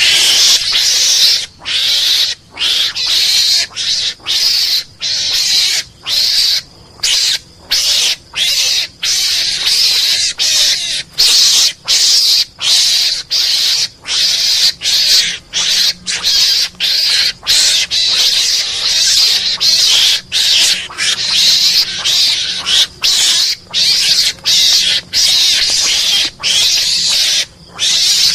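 Mongoose-hunting lure call: a harsh, hissing animal call repeated rapidly with brief gaps, about two a second.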